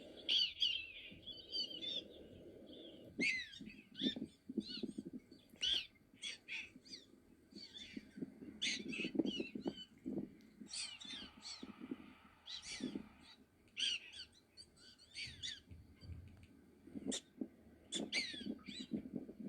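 Black-tailed prairie dogs giving the jump-yip call: many short, high, squeaky yips in quick succession, often overlapping. The jump-yip can be an all-clear signal after a threat has passed.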